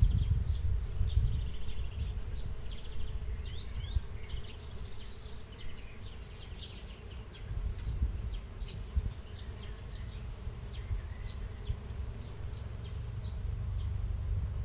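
Bees buzzing around mustard flowers, with small birds chirping repeatedly over a low, steady rumble.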